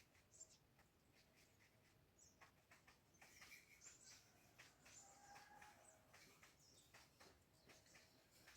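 Faint, high-pitched bird chirps and short ticks, coming in quick scattered bursts.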